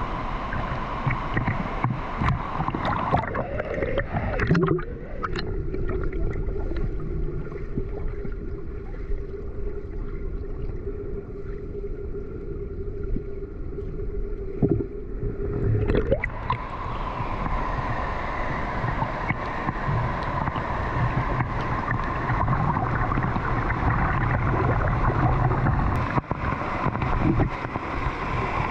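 Rushing river water and waterfall spray, a steady loud rush. From about five seconds in until about sixteen seconds it turns muffled with a steady low hum, then the full rush comes back.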